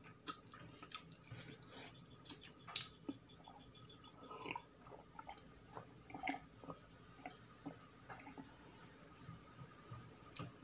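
Close-miked chewing and wet mouth sounds of a person eating rice with curried vegetables, with scattered soft clicks and smacks throughout.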